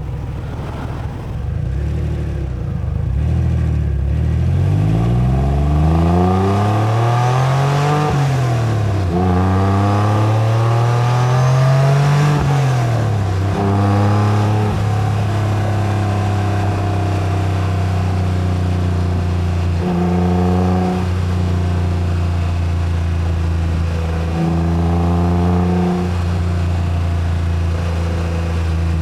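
Acura NSX's mid-mounted V6 pulling away: the engine note rises steadily, drops at an upshift about eight seconds in, rises again and drops at a second upshift around thirteen seconds, then settles into a steady cruise with two brief rises in the note near the end.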